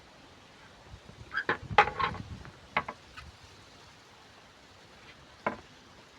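Scattered sharp knocks and clinks: several close together between about one and two seconds in, another a little later, and a single one near the end.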